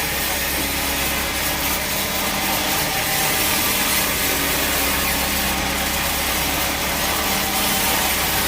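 Bandsaw sawmill blade cutting through a teak log, a steady unbroken noise over the low, even hum of the mill's motor.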